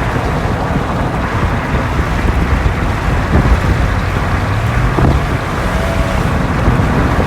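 Wind buffeting the microphone through an open window of a moving vehicle, over a steady rumble of road and engine noise.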